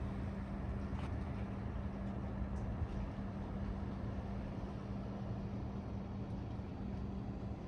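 Street ambience in heavy wind and rain: wind buffeting the microphone, a steady rush of noise, and a constant low hum from traffic or an engine, with a few faint ticks.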